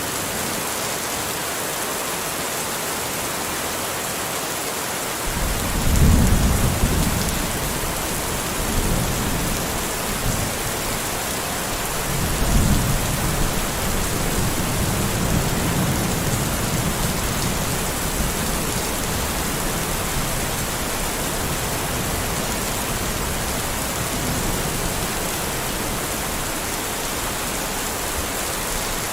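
Steady rain hissing, with thunder rumbling in twice: a low rumble breaks in about five seconds in, a second swells about twelve seconds in, and both fade out slowly.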